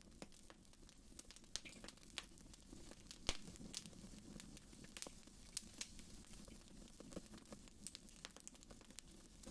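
Wood fire burning in a fireplace: irregular sharp crackles and pops over a soft low rush, the loudest pop about a third of the way in.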